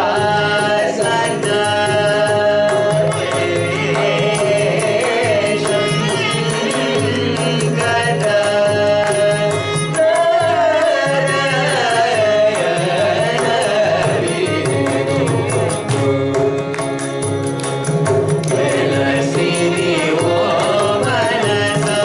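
Carnatic vocal music: a singer's voice with gliding, ornamented notes, accompanied by quick, steady mridangam strokes over a steady drone.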